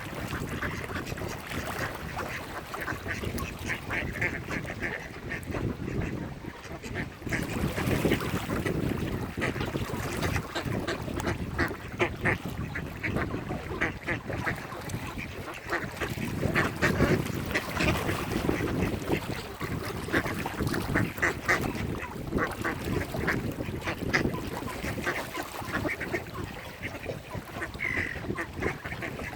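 Mallard ducks quacking repeatedly in a busy, continuous chorus.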